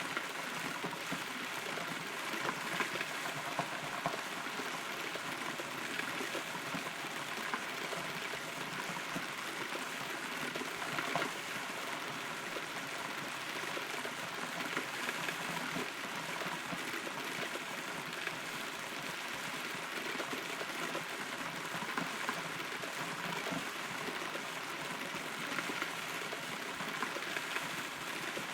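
Steady rain heard from inside a hollow, rotten tree trunk: an even patter with scattered louder single drop strikes.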